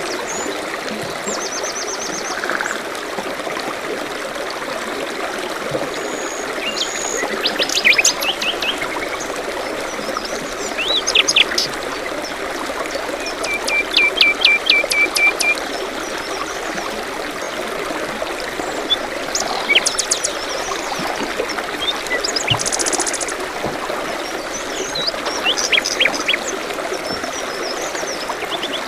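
Small forest stream trickling steadily, with several songbirds calling over it: scattered short chirps and, about halfway through, a quick run of repeated notes.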